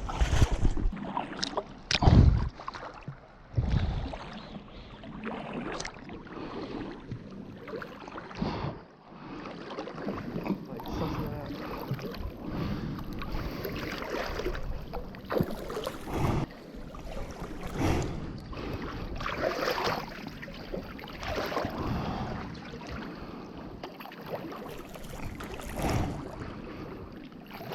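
Water splashing in slow strokes, roughly one every two seconds, with wind on the microphone and a couple of heavier knocks near the start.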